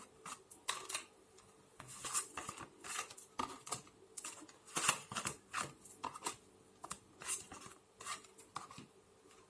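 Tarot cards being shuffled and handled: a quick, irregular run of short papery swishes and snaps, two or three a second, stopping shortly before the end.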